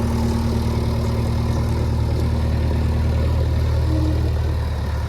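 Heavy diesel engine idling steadily, a deep even hum with a higher steady tone that drops away about two-thirds of the way through.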